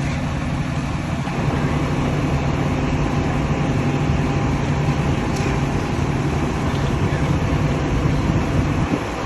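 Heavy diesel engines of concrete mixer trucks running steadily with a low hum.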